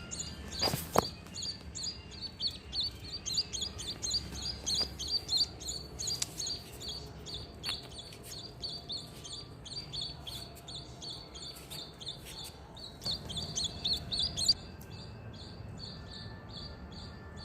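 Emprit (munia) chirping: a fast, even run of short high notes, several a second, that drops to a fainter level about fourteen seconds in. A single sharp click about a second in.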